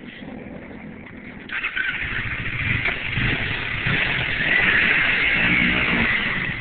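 Motorcycle engine running at low idle; about a second and a half in the level jumps as the bike pulls away, with loud rushing wind and road noise over the engine.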